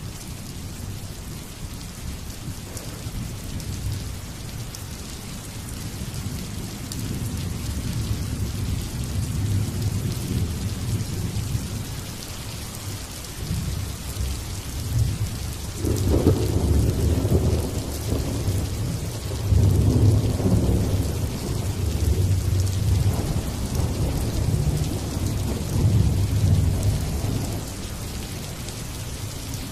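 Steady rain falling through a thunderstorm, with low thunder rumbling in the background. About halfway through a louder roll of thunder breaks in and keeps rumbling in waves.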